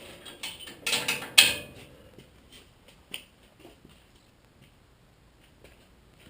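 Mechanical clattering and ratcheting of metal parts, loudest about a second in, followed by a few light clicks.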